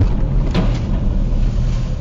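Loud, steady low rumble of a moving car, with a short sharp noise about half a second in.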